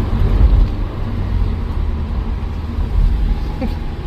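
Steady low engine and road noise inside the cabin of a Honda S2000 on the move.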